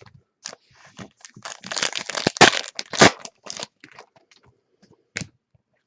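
Trading cards and their packaging being handled: a crinkling, rustling stretch through the middle, then scattered light clicks with one sharper click near the end.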